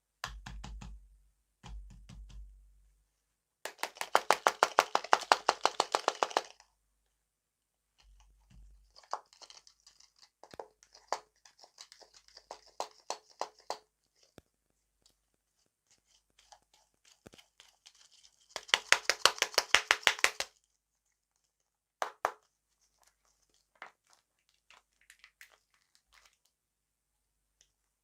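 Close-miked crisp crackling and clicking from candy and dessert being handled and eaten, in two long rapid runs about four and nineteen seconds in, with scattered clicks and a few soft thuds between.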